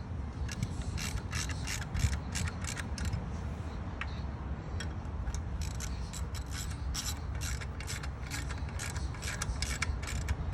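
Ratchet wrench clicking in uneven runs of quick clicks as bolts are worked during a Toyota 22R clutch install, over a steady low rumble.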